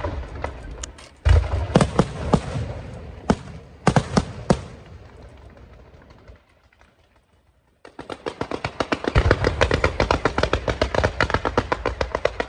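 Fireworks going off: a run of sharp bangs in the first few seconds that dies away to a brief lull, then from about eight seconds a dense, rapid crackle of many small pops, several a second.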